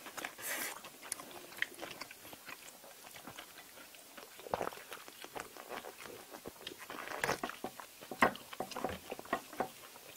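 Close-miked eating sounds: chewing and crunching of kkakdugi (cubed radish kimchi) and jjajangmyeon noodles, with irregular wet mouth clicks and smacks, busiest a few seconds before the end.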